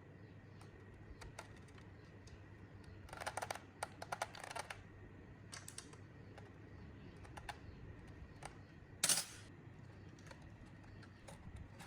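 Light clicks and taps of hand work on small parts, with a quick flurry of clicks about three to five seconds in and one louder, short rasping burst about nine seconds in.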